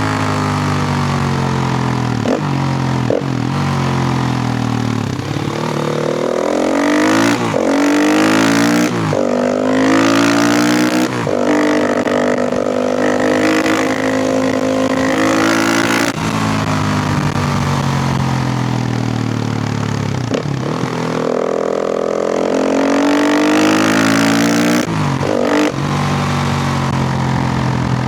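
KTM EXC 450's single-cylinder four-stroke engine being ridden hard: its pitch climbs through the gears with a short dip at each upshift, then falls away as the bike slows, several times over.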